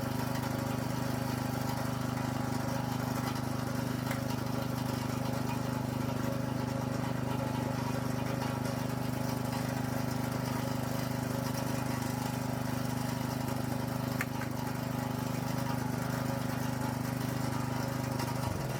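A small engine running at a steady speed, then shutting off near the end, its hum sliding down in pitch as it stops.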